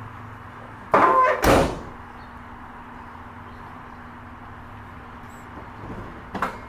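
A car door being shut: a loud bang about a second and a half in, then a smaller knock near the end, over a steady low hum.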